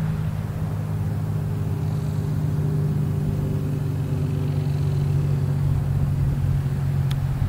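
An engine running steadily at a constant speed, a low droning hum.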